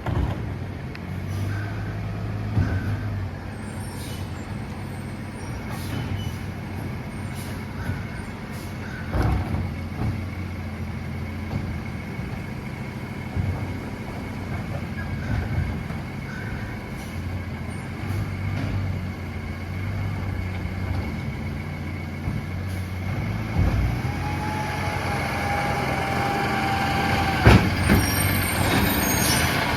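Freightliner M2 garbage truck running, its engine droning steadily, with air brake hisses and several sharp knocks along the way. A short steady whine comes about three-quarters through, and the truck grows a little louder near the end.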